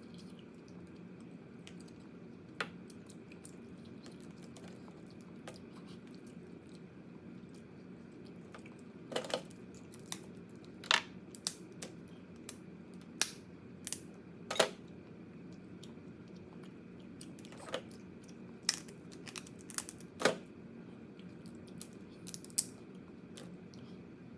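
Crab being eaten: sharp, irregular cracks and crunches of shell being bitten and broken, clustered in the middle of the stretch, over a steady low hum.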